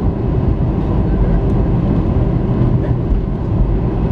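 Loud, steady rumble of an Airbus A320's engines and airframe heard inside the passenger cabin.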